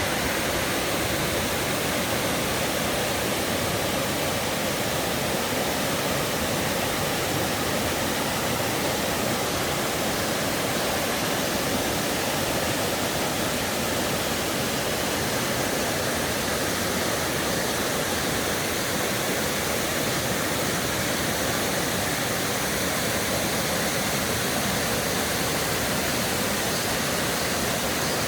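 Steady rush of water in a rocky mountain stream, an even noise without break.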